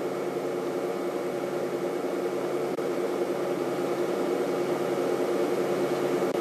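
Steady motor hum with several held tones over a soft hiss, unchanging throughout.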